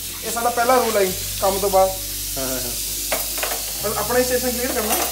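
Onion-tomato tarka with butter sizzling in a covered pan, with a voice singing long, wavering notes over it.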